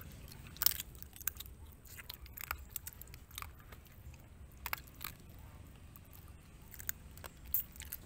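Chewing and biting small pieces of crab, the shell cracking between the teeth in irregular sharp crunches.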